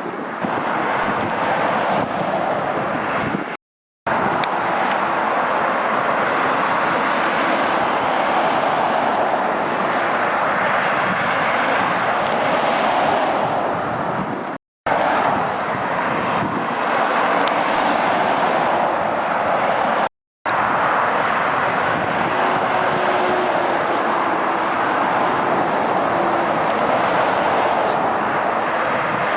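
Steady, loud traffic noise of lorries and cars passing at speed, a continuous rush of tyres and engines. The sound drops out to silence briefly three times.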